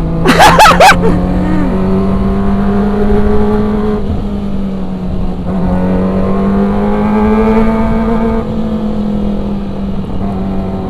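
Kawasaki ZX-25R's 250 cc inline-four engine pulling under acceleration, its note climbing, dropping briefly around four to five seconds in as for a gear change, then climbing again. A quick burst of loud sharp cracks about half a second in is the loudest sound.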